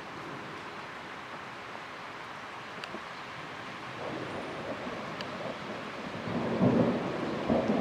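Thunder from distant cloud-to-ground lightning: a low rumble builds about halfway through and grows loudest near the end, over a steady hiss of rain.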